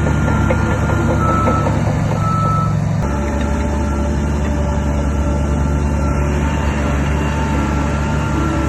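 Heavy diesel earth-moving machine running under load, its engine note changing about three seconds in, with a reversing alarm beeping over it.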